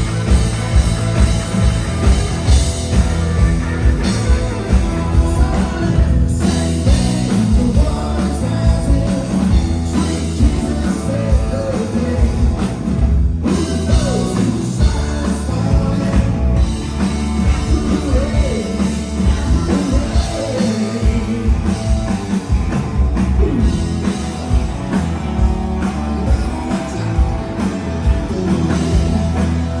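Live rock band playing loud, with drum kit, electric guitar and heavy bass, recorded on a phone with a boomy, crowded low end.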